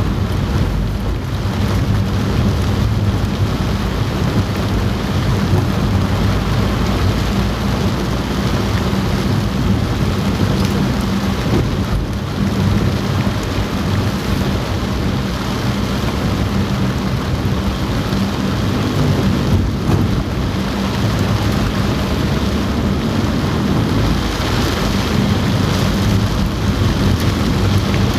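Heavy rain falling on a car's roof, heard from inside the cabin as a steady, dense hiss, over the low, steady rumble of the car driving.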